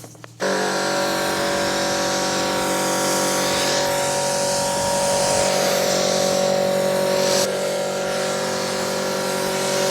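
Electric pressure washer running with its trigger held: the pump motor's steady hum under the loud hiss of the high-pressure water spray, starting abruptly about half a second in.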